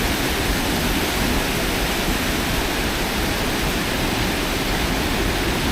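Steady rush of high water pouring over a small dam into white water.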